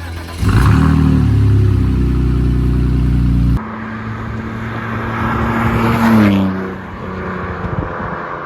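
Car engine heard in two cuts, most likely a BMW Z3's straight-six. It runs loud and steady for about three seconds and stops abruptly at a cut. In the second cut it revs up, drops back, and runs on lower.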